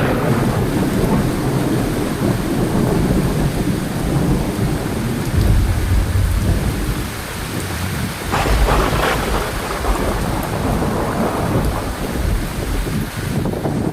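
Heavy rain falling steadily through a thunderstorm. There is a low rumble of thunder about five seconds in, and a sharper crack with a rumble about eight seconds in.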